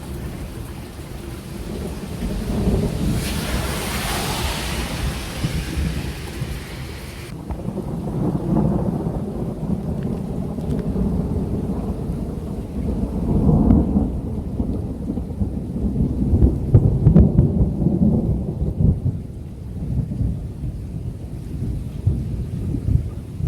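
Long rolling thunder from a thunderstorm front, a deep rumble that swells and fades several times, with rain. A rain hiss grows louder between about three and seven seconds in and then cuts off suddenly.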